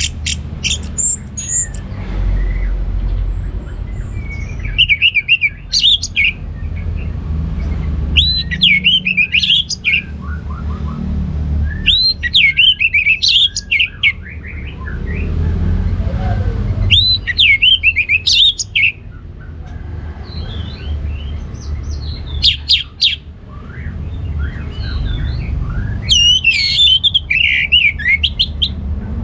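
Orange-headed thrush singing: about six phrases of quick, swooping, whistled notes, each lasting a second or two, a few seconds apart, over a steady low background hum.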